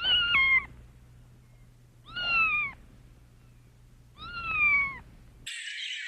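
Domestic cat meowing three times, about two seconds apart, each meow a short call that dips slightly in pitch. Near the end a different high chirping sound cuts in abruptly.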